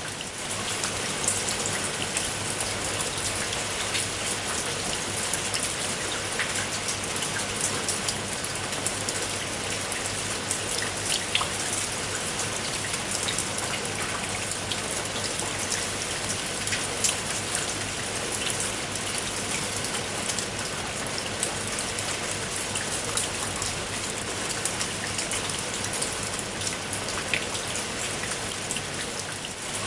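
Steady rain falling: a dense, even hiss of rain with many individual raindrops ticking sharply through it.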